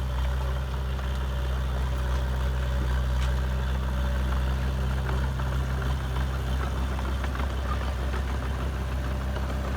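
Heavy diesel engine of earthmoving machinery running steadily at low revs, a deep even drone with light clatter over it.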